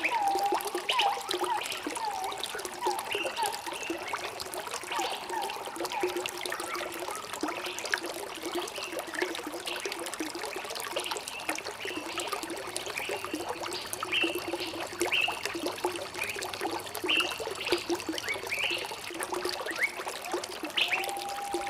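Small stream trickling and burbling steadily, with many short chirping bird calls over it.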